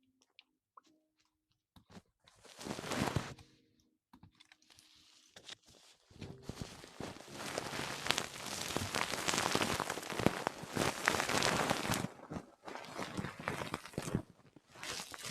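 Close-miked ASMR rustling: crackly, crinkling scratching noise. It comes in a short burst a few seconds in, then runs thick and continuous for about six seconds before breaking into shorter patches.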